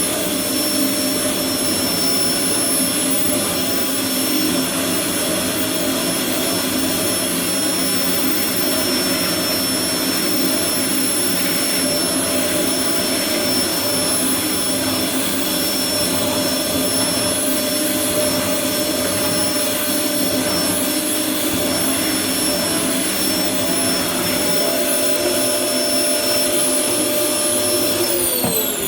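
Vacuum cleaner running steadily with a high motor whine. Near the end it is switched off and the whine falls in pitch as the motor winds down.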